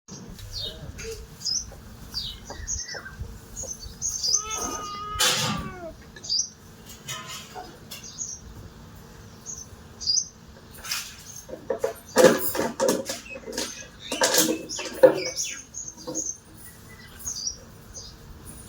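Chickens calling: a steady run of short, high peeping chirps, with louder, harsher calls bunched about two-thirds of the way through.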